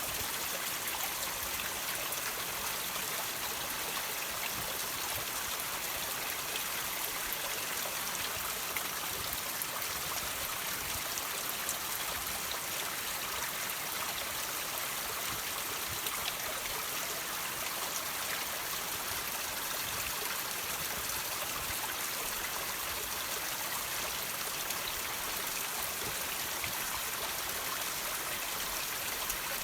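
Water trickling and dripping over rocks: a steady, even splashing hiss with small scattered drips.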